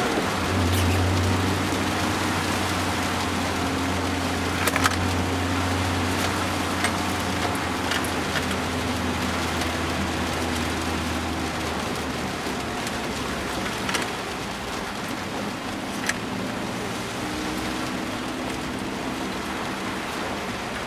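BMW E30 318is four-cylinder engine running at a steady note, heard from inside the cabin over tyre and rain noise on a wet road. The engine note eases off about twelve seconds in, leaving mostly road and rain noise with a few light knocks.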